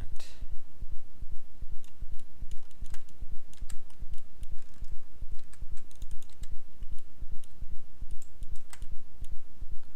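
Scattered clicks of a computer keyboard and mouse, over a steady low hum.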